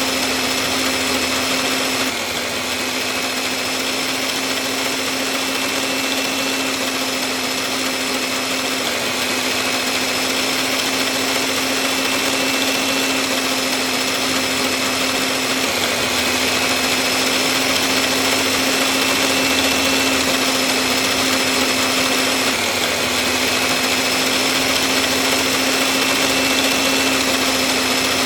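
Small motor of a homemade miniature tractor saw machine running steadily with a high, even whine. Its pitch shifts slightly every six or seven seconds.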